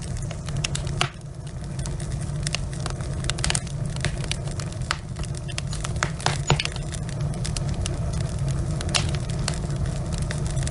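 Wood fire burning in a fireplace, the logs crackling with irregular sharp pops, a few louder than the rest, over a steady low rumble.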